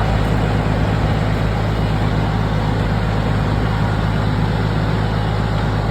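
A motor vehicle's engine running steadily on the road, a constant low hum with tyre and road noise over it.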